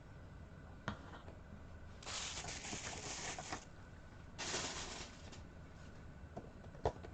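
Plastic packaging rustling and crinkling in two short spells, with a few light clicks, as Heroclix booster packaging and figures are handled.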